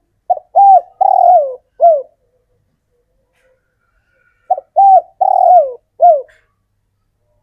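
Male spotted dove cooing: two phrases, about four seconds apart, each of four coos, a short first note, then a coo, a longer coo falling in pitch, and a final coo.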